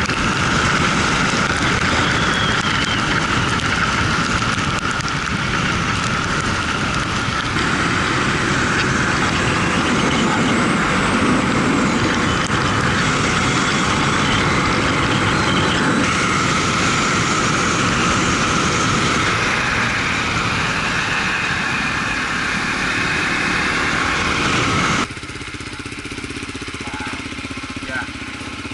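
Honda XR250 single-cylinder motorbike under way, its engine buried in loud, steady wind and road noise, in several stretches joined by abrupt cuts. About 25 seconds in, the sound cuts to a quieter level.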